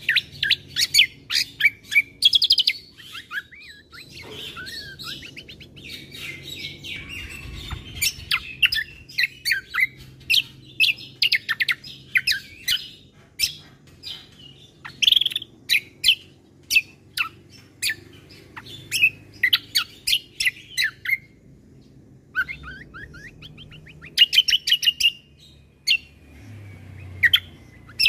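Kecial kombo (cucak kombo) songbird singing a fast, varied song of short, sharp chirps and trills, with a brief pause a little past the middle.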